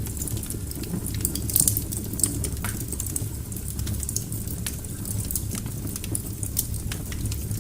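Wood fire crackling in a fireplace: frequent sharp pops and snaps over a steady low rumble of the burning logs, with a quick cluster of pops about a second and a half in.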